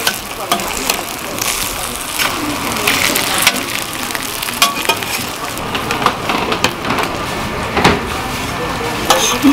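Korean vegetable pancakes (jeon) sizzling as they fry on a flat-top griddle, with short sharp clicks from kitchen scissors and a metal spatula cutting and lifting them.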